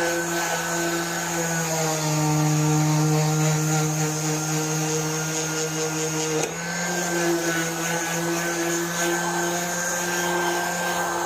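Electric grinder running steadily against the metal of a go-kart seat, grinding off peeling paint and rust. Its pitch sags as it is pressed into the work about two seconds in and comes back up with a click about six and a half seconds in.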